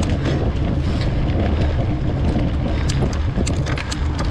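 Wind rumbling on the microphone of a mountain bike moving along a dirt trail, with irregular clicks and rattles from the bike and its tyres over rough ground.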